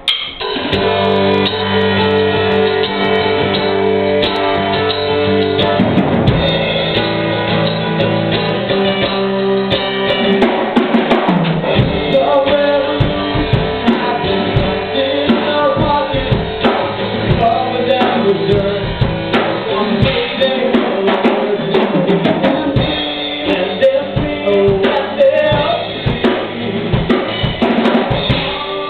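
A live rock band playing an instrumental intro: sustained chords open it, and a full drum kit with bass drum and snare comes in about six seconds in and drives a steady beat.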